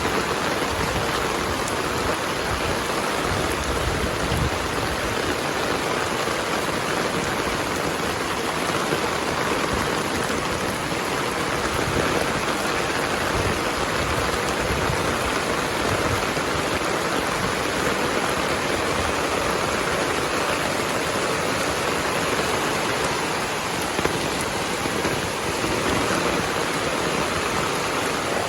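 Heavy rain falling steadily: a dense, even hiss of rain pouring down, with no break in intensity.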